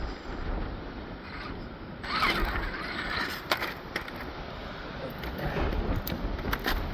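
Radio-controlled rock crawler's electric motor and geared drivetrain whirring in short spells, with a few sharp clicks near the end. Wind buffets the microphone throughout.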